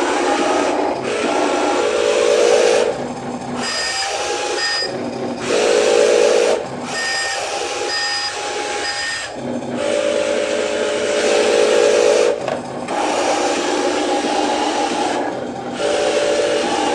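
Electric motors and gearboxes of radio-controlled trucks whining and grinding, with the whine starting and stopping in stretches of a second or two. Short high beeps sound twice, then three times, in the middle.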